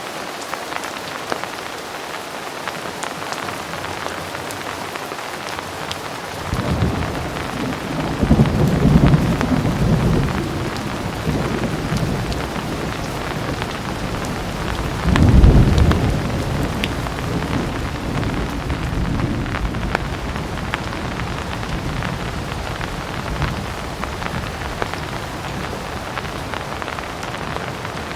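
Heavy rain falling steadily, with a low rumble of thunder rising about six seconds in, swelling, and peaking loudest about halfway through before fading back under the rain.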